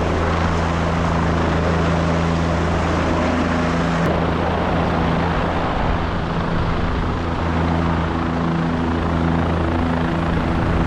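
Helicopter in flight: steady rotor and engine noise with a constant low hum.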